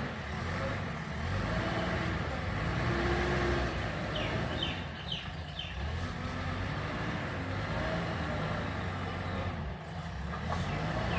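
Diesel engines of a JCB digger and a tipper truck running steadily under work. A faint high-pitched tone repeats in the first couple of seconds, and a few brief squeals come about four to five seconds in.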